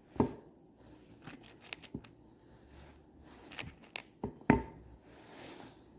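Cut timber pieces being handled and set against one another on a bench: a few sharp wooden knocks with light scraping between them, the loudest about four and a half seconds in.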